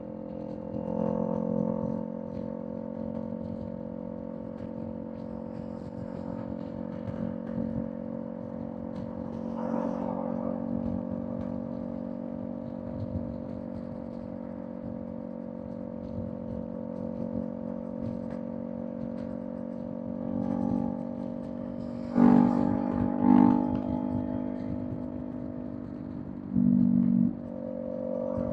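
Kawasaki Z400 parallel-twin engine through a Villain M1 aftermarket exhaust, running at a steady cruising speed with an even hum. There are brief louder surges now and then, the strongest in the last few seconds.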